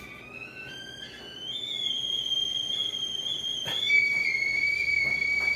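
Kettle whistling as it comes to the boil: a steady shrill tone that climbs in pitch about a second in, jumps to another pitch near the end and grows louder.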